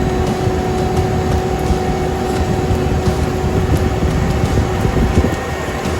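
Dump truck's engine running with a steady low rumble, over which a steady whine holds and stops about five seconds in.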